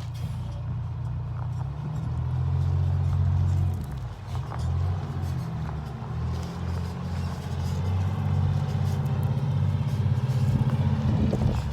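1997 Pierce Arrow pumper fire engine's diesel engine running with a steady low rumble that swells and eases in loudness a few times.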